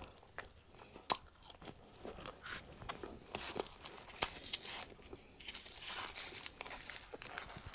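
Close-miked chewing of a mouthful of potato wedge, with many small crunches and wet crackling clicks.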